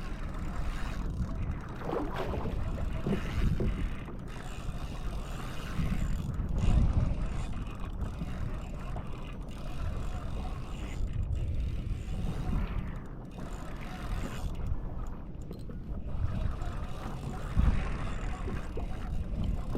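Wind buffeting the microphone with water sloshing against a fishing kayak, in uneven low gusts.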